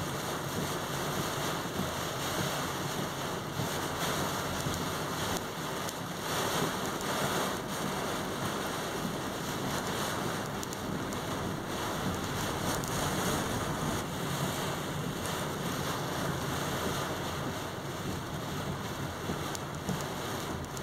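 Typhoon wind blowing hard and gusting against the microphone, a continuous rushing noise that swells and eases.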